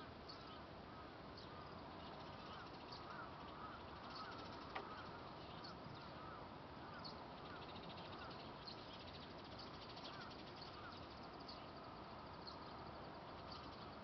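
Birds chirping and calling faintly at a distance over a steady outdoor background hiss, with a single sharp click about five seconds in.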